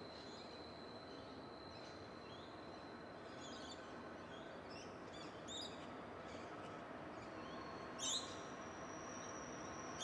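Birds chirping and calling over a steady low background rumble. The loudest calls come about eight seconds in, and a thin high steady tone runs through the first half.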